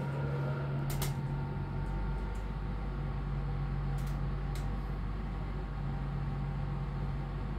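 Steady hum inside a Class 323 electric train carriage, with a deeper low rumble coming in about two seconds in and a few faint clicks.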